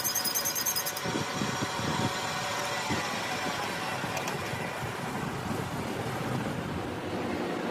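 A vehicle engine running steadily, with a high chiming sound that stops about a second in.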